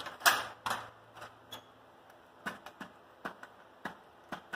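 Metal parts and tools being handled and positioned: a sharp knock just after the start, then scattered lighter clicks and taps.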